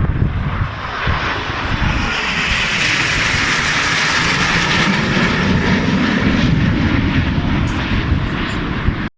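Airplane engine noise as an aircraft flies past: a loud rushing sound that swells to its peak about three to five seconds in, then eases off.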